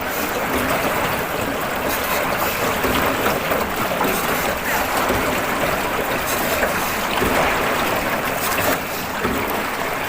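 Steady rushing and splashing of river water around a small rowed boat.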